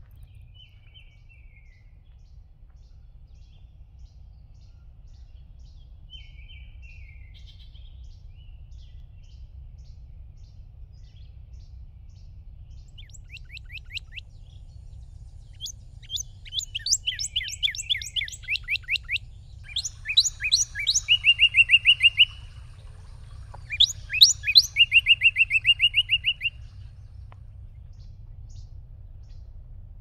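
A songbird singing: a few faint short calls, then from about halfway through several loud trilled phrases of rapid repeated notes, each lasting two to three seconds. A low steady rumble runs underneath.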